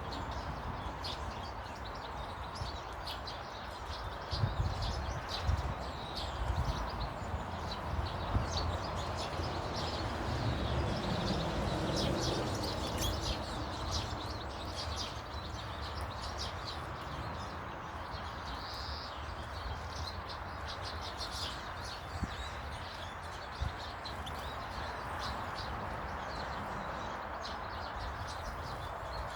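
Small garden birds chirping and tweeting, many short calls throughout, over a low rumble that is strongest in the first half.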